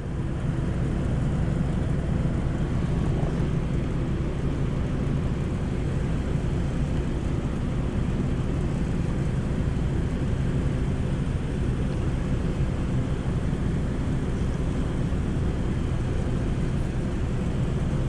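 A steady, unchanging low mechanical hum with a noisy hiss above it.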